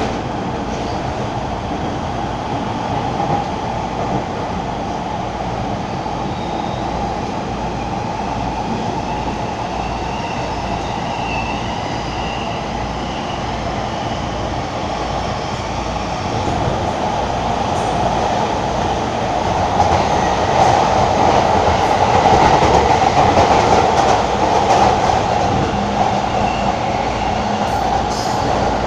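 Commuter train on the Shonan-Shinjuku Line heard from inside the car while running: a steady rumble of wheels on the rails with an even low pulsing. It grows louder about two-thirds of the way through.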